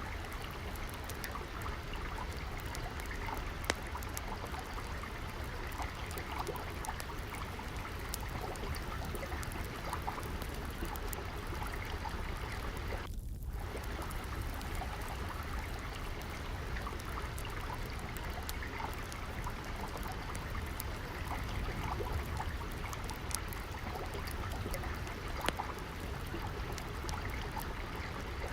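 Steady trickling of flowing water, with many scattered sharp crackles of a wood fire. The water sound briefly drops out about halfway through.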